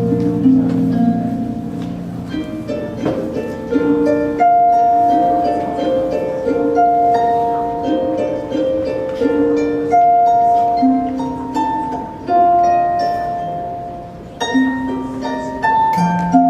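Instrumental music on a plucked string instrument: a flowing melody of single plucked notes, each ringing on and fading, over lower accompanying notes. It briefly softens about three-quarters of the way through, then picks up again.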